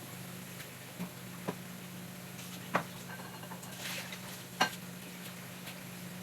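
Microwave oven running with a steady low hum while a cake cooks inside, with a few sharp clicks and knocks, two of them louder about three and four and a half seconds in.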